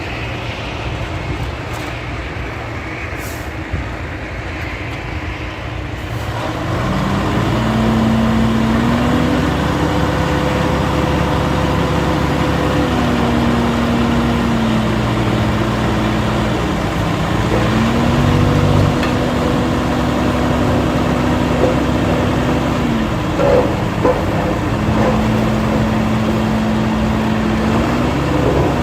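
Diesel engine of heavy earthmoving machinery running. About six seconds in it gets louder, and then it revs up and down several times, holding each speed for a few seconds as it works under load.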